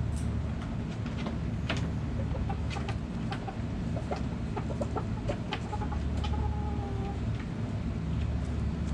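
Backyard hens clucking in short, scattered notes, with one longer drawn-out call about six seconds in, over a steady low rumble.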